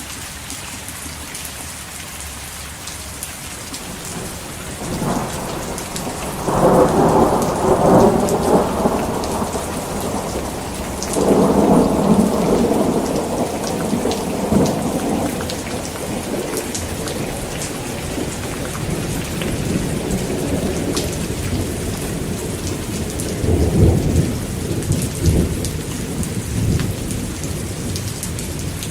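Heavy rain falling steadily, with thunder rolling three times: a long rumble building a few seconds in, a second one soon after, and a shorter one with sharper claps near the end.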